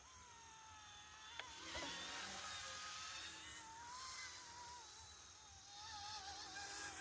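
Small electric RC helicopter (ERA C186 Pro) whining in flight, its motor pitch wavering gently up and down as the throttle shifts. A sharp click sounds about one and a half seconds in.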